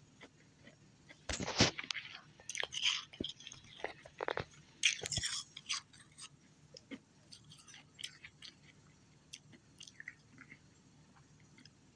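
A person biting and chewing ice, with a run of loud crunches from about one to five seconds in, then quieter scattered crackles.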